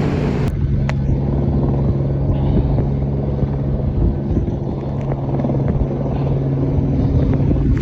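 Snowmobile engine running at a steady speed, a constant low engine drone with a few faint knocks over it.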